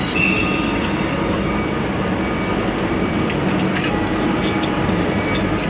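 Train noise in a railway station: a steady rumble with a high hiss that fades after about two seconds, and scattered clicks.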